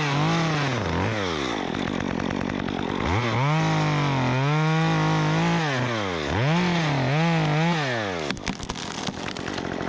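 Stihl MS 194T two-stroke top-handle chainsaw with a 1/4-inch Ripsaw conversion chain revving into a cut. The engine rises and falls with the throttle, is held high for a couple of seconds, then gets several quick blips before dropping off. A few sharp cracks come near the end.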